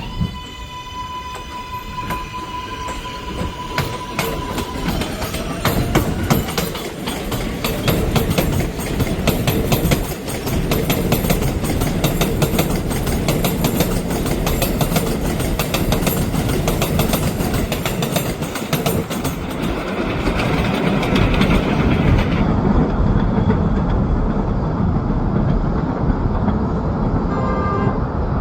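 R188 subway train on an elevated line: the traction motors give a steady whine for the first few seconds. Then the train runs past with loud rumbling and rapid wheel clatter over the rail joints.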